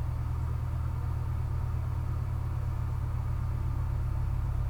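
A steady low hum that runs on unchanged, with no separate sounds over it.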